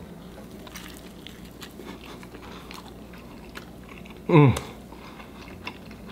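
A man biting into a grilled burrito and chewing it, with faint small crunches. About four seconds in comes a short, pleased "mm" that falls in pitch, the loudest sound.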